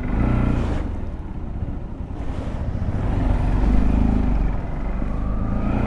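Motorcycle engine running while riding, with wind buffeting the microphone; the engine note rises near the end.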